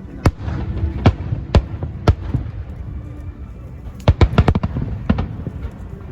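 Fireworks bursting in sharp bangs: four spaced about half a second apart, then a rapid cluster of five or six about four seconds in, over a steady low rumble.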